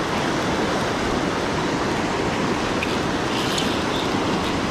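River water rushing steadily over rocks, a continuous even noise with no pause.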